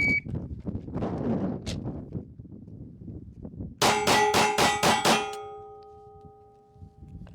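Shot timer start beep, then, after a gap of nearly four seconds, six pistol shots fired in a quick string of about a second and a quarter (a bill drill), leaving a metallic ringing that fades over about two seconds. The long gap before the first shot comes from a sticky, slow draw.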